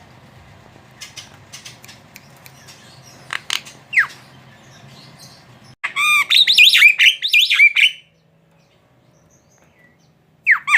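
Javan myna calling: scattered clicks and a short falling whistle, then about two seconds of loud, fast, wavering calls, and another falling call near the end.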